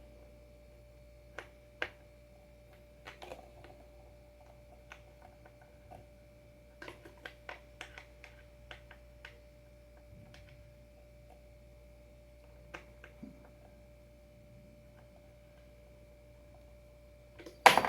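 Scattered light clicks and taps of small hardware, screws and bolts, being handled while mounting a surfskate adapter on a skateboard, with a quicker run of taps midway. A brief louder sound with a falling pitch comes at the very end.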